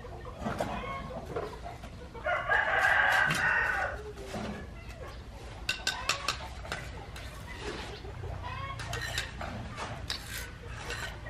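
A rooster crowing once, about two seconds in, the loudest sound here; scattered sharp taps and clicks follow in the second half.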